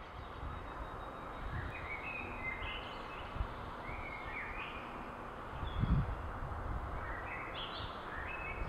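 Small birds calling in short chirping notes, several groups of them, over a steady background rumble, with a couple of brief low thumps partway through.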